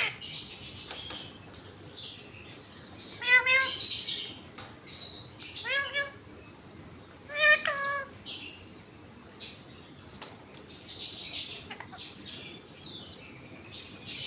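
Indian ringneck parrot calling: three short rising squawks about two seconds apart, with softer high scratchy chirps in between.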